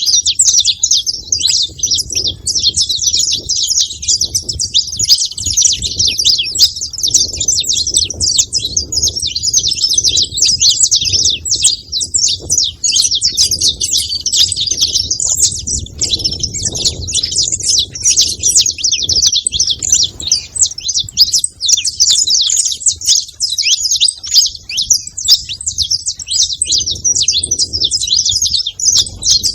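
Saffron finch chirping and singing without pause, a dense stream of rapid high notes.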